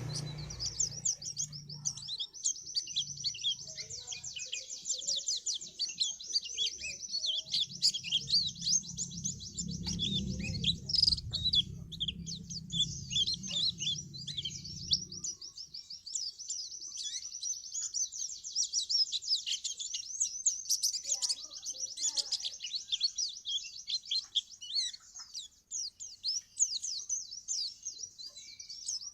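A moulting pleci (white-eye) singing a long, rapid, unbroken twittering 'ngriwik' song, high-pitched and with only brief breaks. A low hum sits under it and stops about halfway through.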